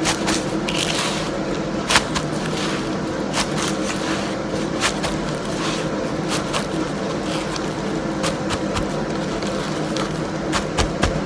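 Hands crushing and clapping freshly fried, crispy parotta to break open its layers: scattered crackles and scrapes over a steady background hum.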